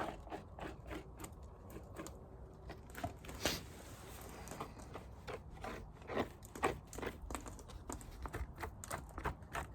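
Irregular crunching, crackling and scraping of beeswax comb on a hive frame being worked over by hand, with one sharper crack about three and a half seconds in.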